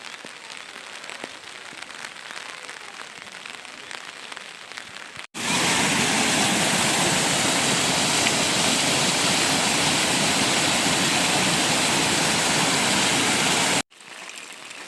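Steady rain falling, a fairly light hiss for about five seconds, then an abrupt jump to a much louder, heavier downpour for about eight seconds, then an abrupt drop back to the lighter rain near the end.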